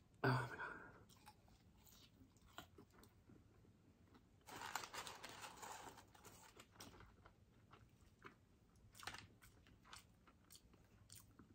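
Close-up eating sounds: McDonald's fries being chewed, with scattered small wet clicks and a louder, noisier stretch of about two seconds near the middle.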